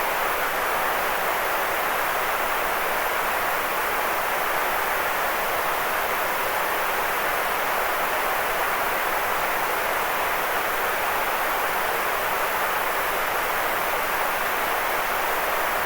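Sleep-aid white noise: an even, unchanging hiss, fullest in the middle range and thinner in the deep bass and the very top.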